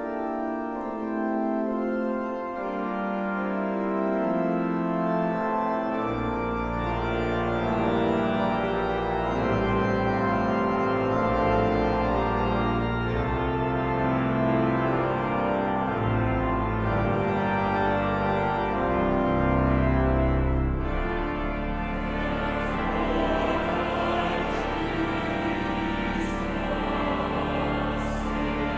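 Organ music: slow, sustained chords changing step by step, with deep pedal notes coming in about six seconds in.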